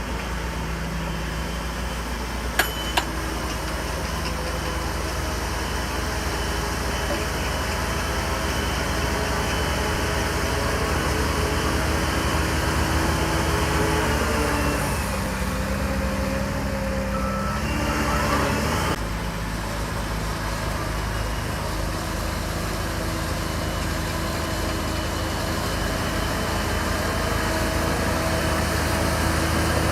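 Diesel engine of a Shantui DH17C3 bulldozer running steadily while it works, with two sharp knocks a few seconds in. The engine pitch shifts partway through as the load changes.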